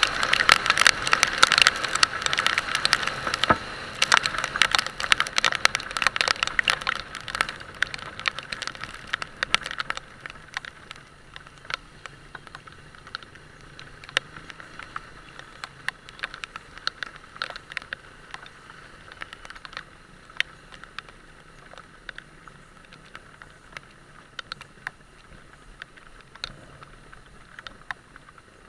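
Heavy rain, with many sharp drop ticks close to the microphone: dense and loud for about the first ten seconds, then thinning to scattered ticks over a faint hiss.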